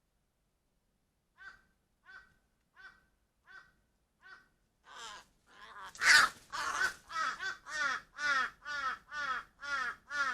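Crow cawing: five soft caws evenly spaced, then a run of louder caws about twice a second, the loudest about six seconds in.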